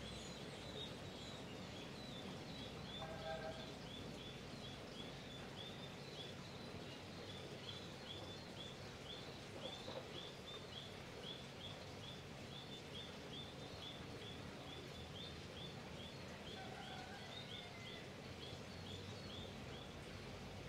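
Quiet outdoor ambience: a bird gives short high chirps over and over, about two a second, with a couple of lower calls now and then over a low steady background hum.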